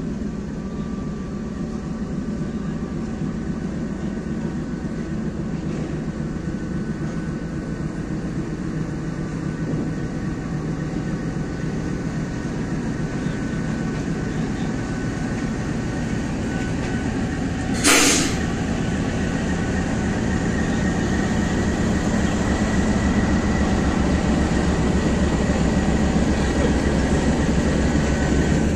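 Diesel locomotive's engine running as the train departs and draws past, the rumble growing louder, then the coaches rolling by. About eighteen seconds in there is a single brief, loud burst of noise.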